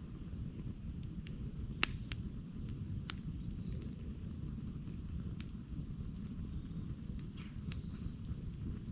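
Campfire burning with a steady low rumble, crackling with scattered sharp pops; the loudest pop comes about two seconds in.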